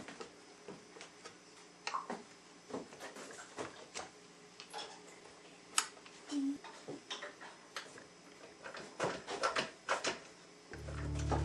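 Irregular small clicks, taps and knocks of engine parts and tools being handled on a bench, with one sharper knock about six seconds in and a quick run of taps near the end. Music fades in just before the end.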